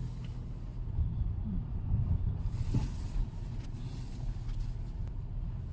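Car running, heard from inside the cabin: a steady low engine and road rumble with a faint hum.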